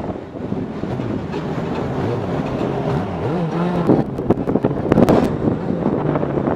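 Motorcycle engine running under wind noise on the microphone, its pitch rising and falling as the revs change around the middle.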